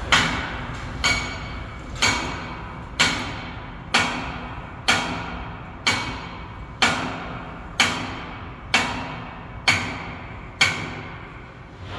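Hammer striking steel in a steady rhythm: about a dozen blows, one a second, each ringing briefly.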